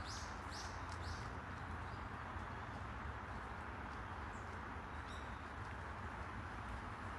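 Steady outdoor background hum with a bird giving a quick run of short, high chirps at the start and again about five seconds in.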